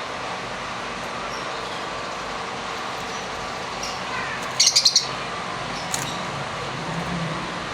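Blue lovebird calling: a quick run of about five loud, shrill chirps a little past halfway, with a few fainter chirps before and after. The calls sit over a steady background hiss.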